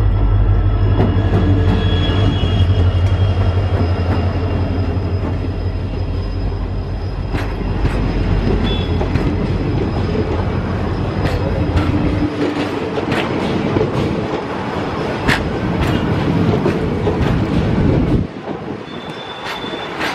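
WDP4D diesel-electric locomotive with its EMD engine passing close by at speed. The engine's low drone fades after about twelve seconds, leaving passenger coaches rolling past with sharp wheel clicks and brief high wheel squeals.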